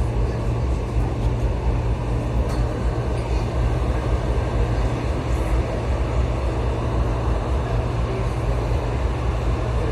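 Suburban electric train running, heard from inside the carriage: a steady low rumble of the car and its wheels on the rails.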